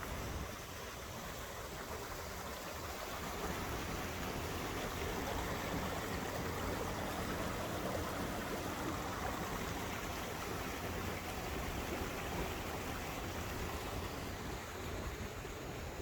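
Small mountain stream flowing, a steady rush of running water.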